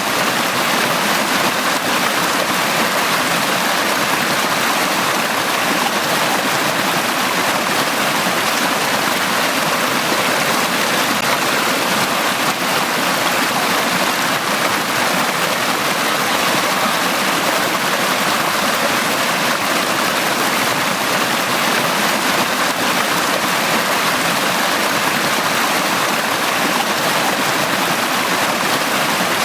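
Forest stream flowing over rocks, a steady, even rush of running water.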